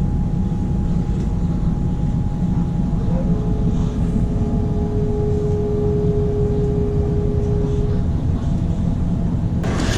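Steady low rumble of a running vehicle engine, with a faint steady hum. A thin held tone sounds for about four seconds in the middle.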